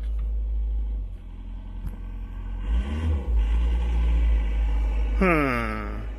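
A Case skid steer loader's diesel engine starting and then running with a deep, steady rumble, heard from the operator's seat. About five seconds in, a pitched sound glides downward.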